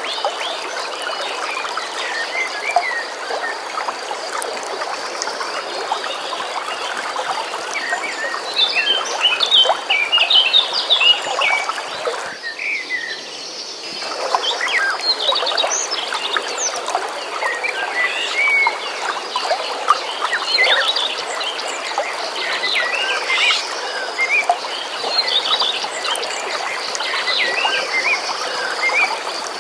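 Many birds chirping and singing over the steady rush of a flowing stream, with a steady high trill running underneath. About twelve seconds in, the high trill and hiss drop out for a second or two, then return.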